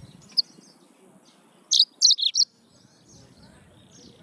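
Yellow-fronted canary chirping: one short high chirp, then a quick loud run of four or five high chirps about two seconds in, with fainter chirps around them.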